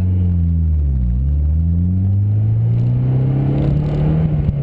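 Honda S2000 engine under hard driving: its note dips in the first second, climbs steadily for about three seconds as it pulls up through the revs, then drops near the end as it comes off the throttle.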